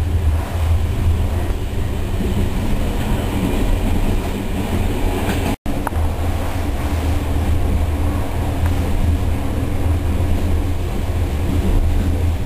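Passenger train running along the track: a steady, low rumble, broken by a split-second dropout a little past halfway.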